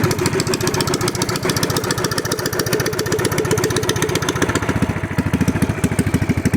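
Predator 212 single-cylinder four-stroke engine running through a Harley slip-on muffler, with a fast, even exhaust beat that slows to a steadier idle about five seconds in.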